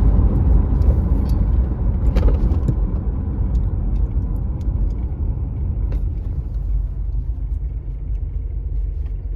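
Car in motion heard from inside the cabin: a steady low rumble of engine and road noise, with a few faint clicks.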